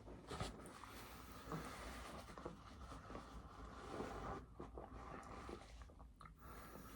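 Faint rustling and light scratching, with a few soft clicks, as food and its paper packaging are handled.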